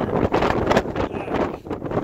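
Extreme wind, screaming, buffeting the microphone in uneven gusts.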